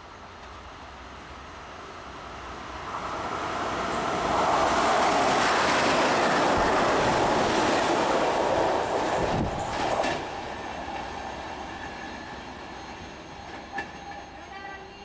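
Freight train passing through a station at speed: the noise builds as it approaches, is loudest for several seconds as the front of the train goes by, then drops to a steadier, quieter run of container wagons rolling past.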